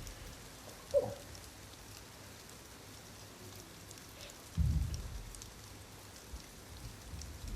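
Steady rain falling on a surface, with a short sharp knock about a second in and a brief low rumble a little past the halfway mark that dies away over about a second.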